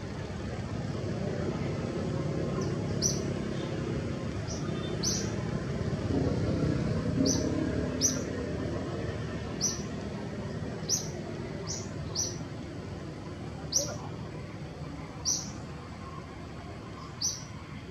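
A bird's short, high chirp repeated about a dozen times, every one to two seconds, beginning about three seconds in, over a steady low rushing background noise.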